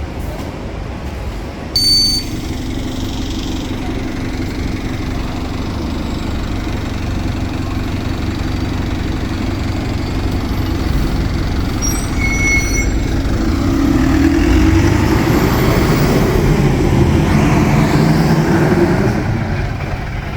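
Optare Solo single-deck bus running, its diesel engine and Allison automatic gearbox droning steadily, then rising in pitch and getting louder for several seconds as it accelerates. There are short electronic beeps about two seconds in and again about two-thirds of the way through.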